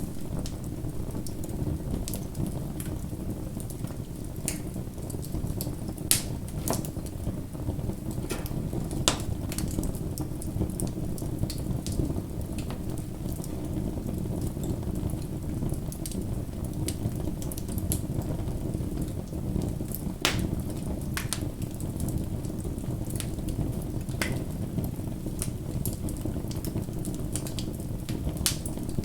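Wood fire burning steadily with a low rumble, crackling and popping at irregular intervals; the loudest pops come about six and nine seconds in.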